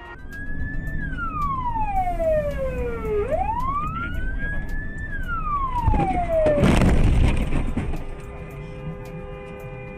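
Emergency-vehicle siren on a slow wail, rising and falling twice, with road noise beneath. About six and a half seconds in it cuts off under a loud, noisy burst lasting about a second and a half.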